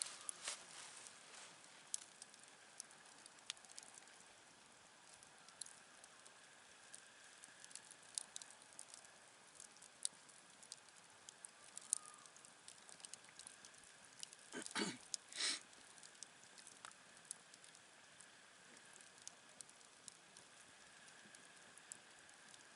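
Wood campfire crackling faintly, with scattered small pops and two louder snaps close together about two-thirds of the way through.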